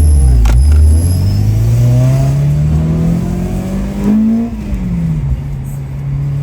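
Car engine accelerating, its pitch climbing steadily for about three seconds, then dropping quickly and settling to a steady note.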